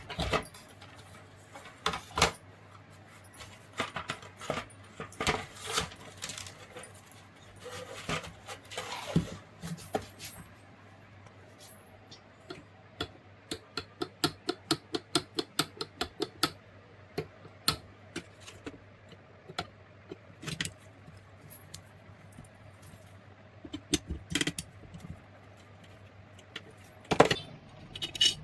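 Metal clinks and knocks of hand tools working on mixer grinder parts, with a quick run of about a dozen even taps partway through.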